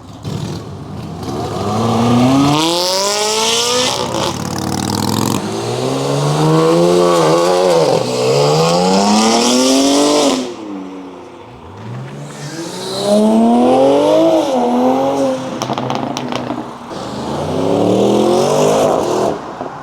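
Ferrari 360 Challenge Stradale's V8 revving hard, its pitch climbing steeply and dropping back several times in three loud spells, with a short lull about halfway.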